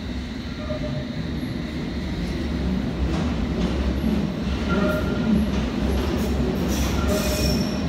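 London Underground train moving through the station: a steady low rumble that grows louder. From about three seconds in, the wheels click over the track and give short high-pitched squeals.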